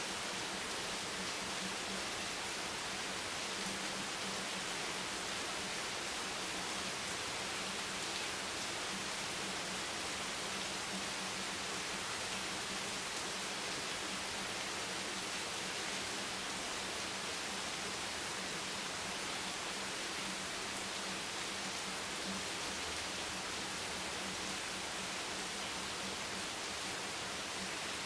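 Steady, even rain hiss with no drops or gusts standing out, and a faint low hum underneath.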